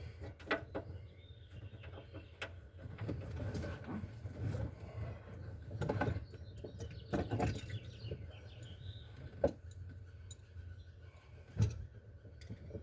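Scattered clicks and knocks of car interior parts and fasteners being handled and refitted, over a low steady hum.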